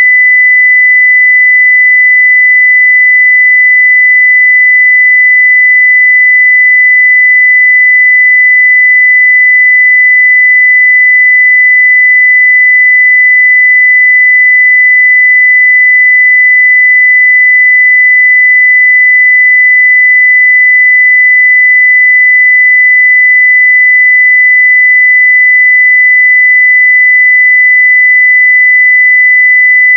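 Continuous 2 kHz sine-wave test tone at full level (0 dB), one pure pitch held perfectly steady.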